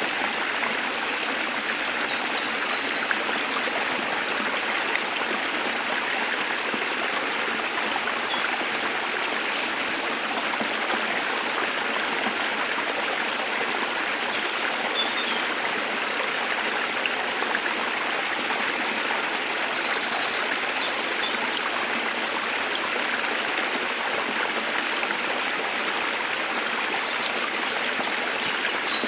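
A waterfall's steady rush of falling water, with a few faint, brief bird chirps above it now and then.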